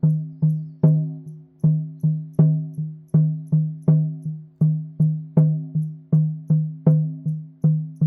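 A drum with a low, clear pitch played in a steady beat of about two and a half strikes a second. Each note rings briefly, and some strikes are louder than others.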